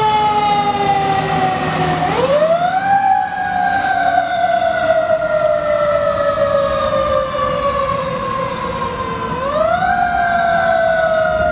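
Fire truck siren wailing on a Code 3 response: its pitch sinks slowly, then sweeps quickly back up about two seconds in and again near the end, over a low engine rumble.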